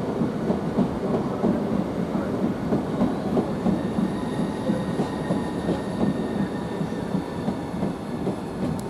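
Southeastern Class 395 Javelin high-speed electric train (unit 395006) running into the station: its wheels running on the rails, with a faint steady whine above.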